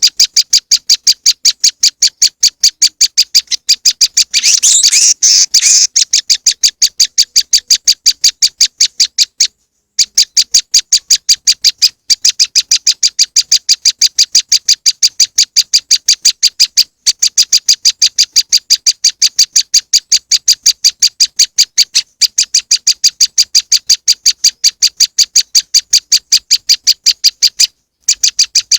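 Recorded prenjak lumut (moss wren) calls played as a bird-trapping lure: a fast, steady train of short high chirps, about five a second, broken by a few brief pauses. About four to six seconds in, a denser chattering burst overlaps the chirps.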